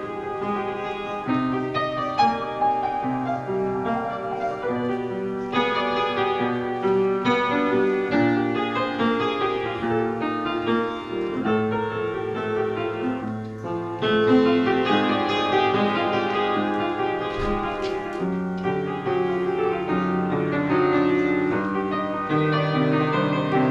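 Solo piano playing a short interlude of notes and chords over changing bass notes, getting louder about fourteen seconds in.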